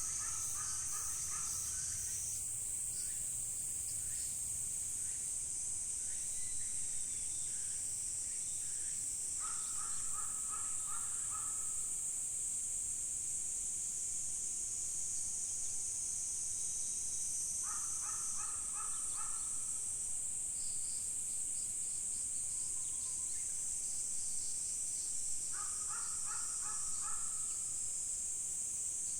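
A steady high-pitched drone of insects singing, with a bird calling in short runs of five or six quick notes about every eight seconds, four runs in all.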